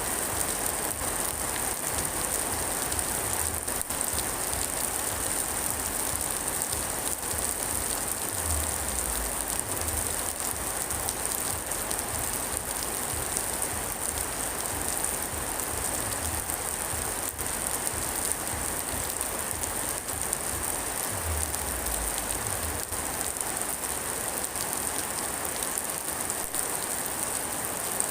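Steady heavy rain falling, an even dense hiss of drops with no let-up. Two brief low rumbles sound beneath it, about a third of the way in and again about three-quarters of the way in.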